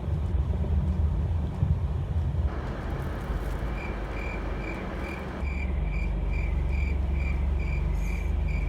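Steady low rumble of a vehicle running, with a high, even beeping starting about four seconds in and repeating a little over twice a second.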